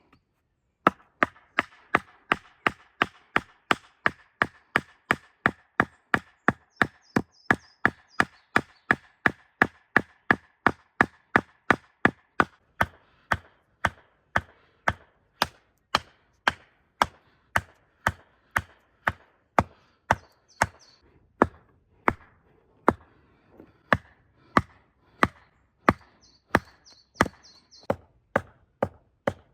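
Steady chopping with a blade, about two sharp, evenly spaced blows a second, with a few faint high chirps now and then.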